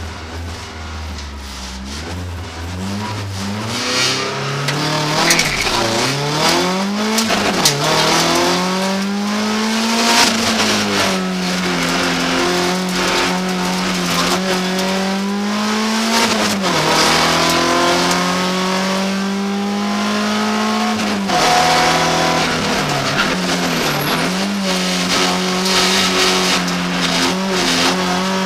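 BMW 318 iS four-cylinder engine heard from inside the cabin, pulling away from idle and accelerating hard through the gears: the pitch climbs in each gear and drops at each upshift. It then runs at steady high revs, with a few brief dips where the driver lifts or shifts.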